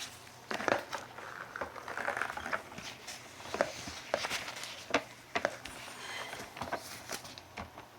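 Irregular handling noises: blue paper shop towels rustling and crinkling, with scattered light knocks and clicks.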